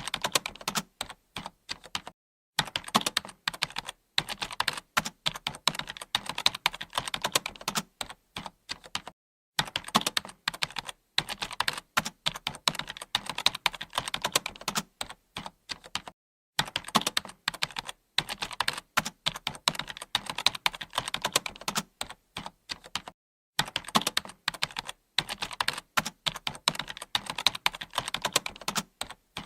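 Computer keyboard typing: rapid, continuous keystroke clicks, broken by short pauses about every seven seconds.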